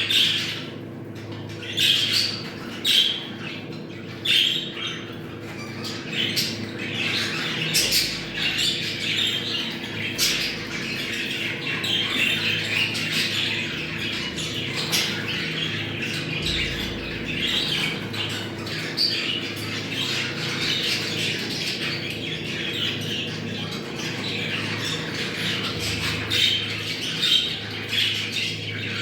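A flock of budgerigars chattering and warbling continuously, with frequent short, sharp squawks. A faint steady hum runs underneath.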